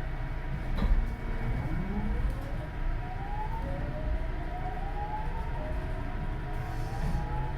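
JR West 207 series electric train's Mitsubishi power-transistor inverter and GTO thyristor chopper whining, the pitch rising in several stepped glides as the train accelerates. Under it are a steady high tone and the train's low running rumble, with a single sharp knock about a second in.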